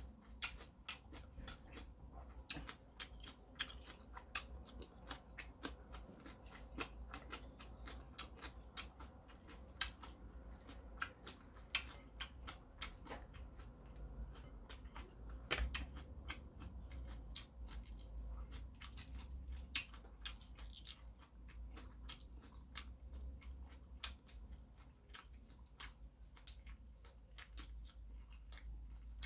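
A man chewing a mouthful of shrimp ramen, with many irregular wet clicks and smacks of the mouth throughout.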